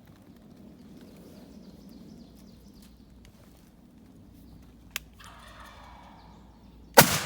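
Wild turkey gobbling once, a rattling call about five seconds in. It is followed just before the end by a single loud shotgun blast that rings off, the loudest sound.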